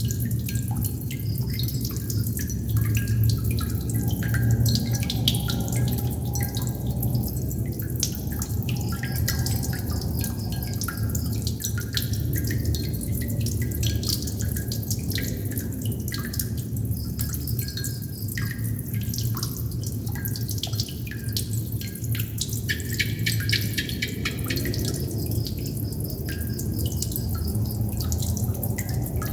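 Water droplets dripping irregularly, many small drips in quick succession, over a steady low hum.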